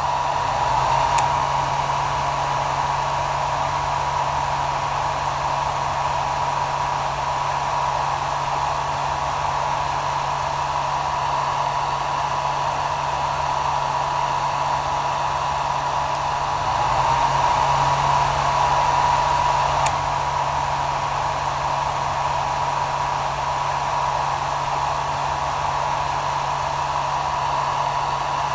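Hair dryer running steadily: an even airy rush with a faint steady whine and a low motor hum, swelling slightly about two-thirds of the way through.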